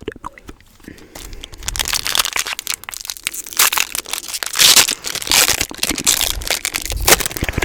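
Crinkly wrapper material crumpled and crushed by hand: a dense run of crackles that starts about a second in and is loudest in the second half.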